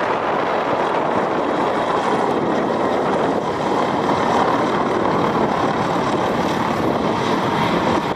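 Mi-171 helicopter running: a loud, steady wash of rotor and turbine engine noise.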